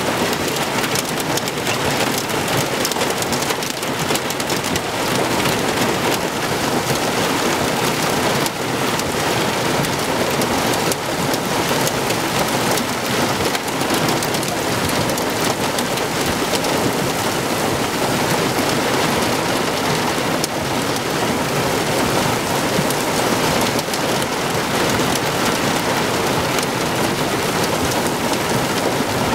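Rain falling steadily: a dense, even hiss of many drops.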